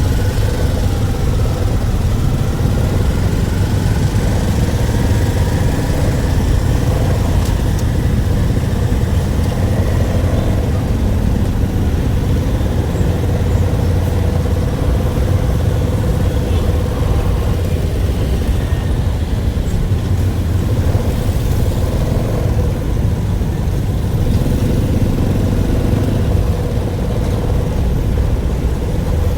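A motor vehicle's engine running steadily: a continuous low rumble with a faint steady hum above it and no clear revving.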